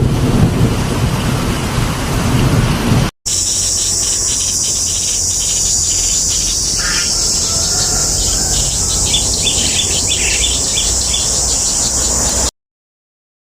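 Storm wind and rain buffeting the microphone, with a low rumble, for about three seconds. After a sudden cut, a steady high-pitched insect chorus with scattered short chirps takes over, and it stops abruptly near the end.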